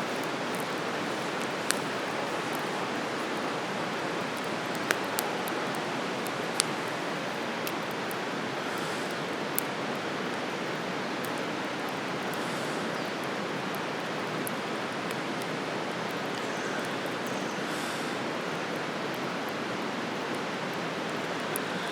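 Wood campfire burning, with a few sharp pops and crackles over a steady rushing noise.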